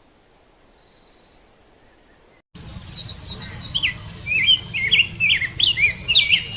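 Faint hiss, then an abrupt cut about two and a half seconds in to songbirds chirping: many quick sweeping notes, over a steady high whine and a low rumble.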